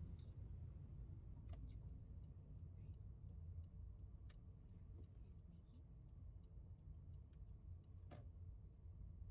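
Car turn-signal indicator ticking faintly at about three clicks a second, starting about a second and a half in, over a low rumble of the car cabin on the move.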